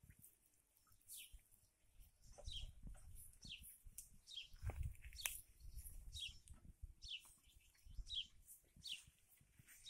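Faint, repeated bird chirps: short high calls that fall in pitch, roughly one or two a second. Low rumbles on the microphone come and go around two, five and eight seconds in.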